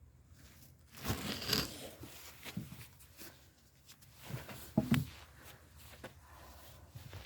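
Irregular rustling and crunching handling sounds, with a loud stretch about a second in and a sharper, louder pair near five seconds.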